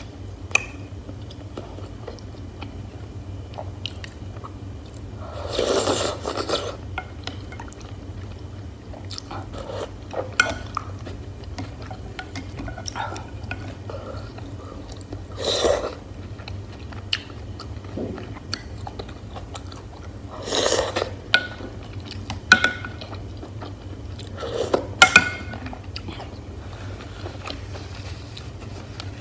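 Close-miked chewing and eating of hotpot beef slices and mushrooms, with a few louder mouth noises and scattered sharp clicks of utensils over a steady low hum.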